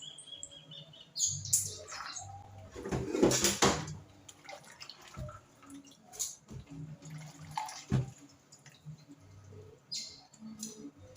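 Kitchen work sounds: water running, with knocks and clinks of dishes and pans.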